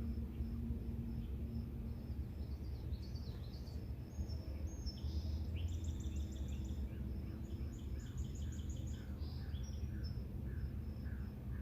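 Outdoor evening ambience: a songbird sings phrases of rapid repeated high notes through the middle, over an insect chirping steadily about three times a second and a low rumble.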